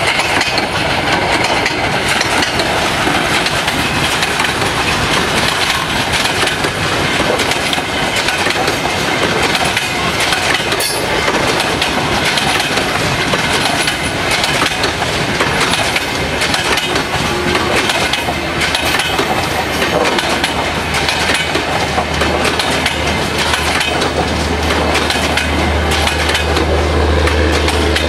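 Passenger coaches of a Bangladesh Railway intercity express passing close at speed: a loud, continuous rattle and clatter of steel wheels over the rail joints. About two-thirds in, a steady low hum rises and grows louder as the train's diesel generator power car draws near.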